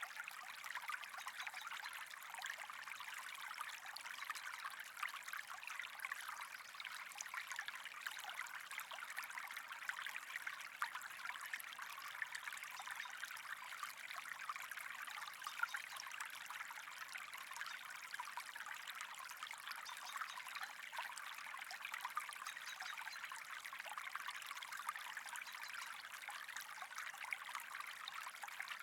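Water trickling steadily, an even running-water hiss flecked with fine ticks.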